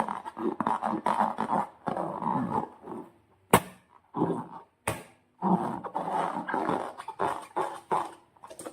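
Slime and a rubber balloon being squeezed and rubbed by hand, giving an irregular run of rough, growl-like squelching and squeaking. Two sharp clicks come about three and a half and five seconds in.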